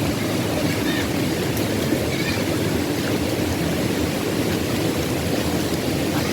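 Steady rush of river water flowing, an even noise with no let-up.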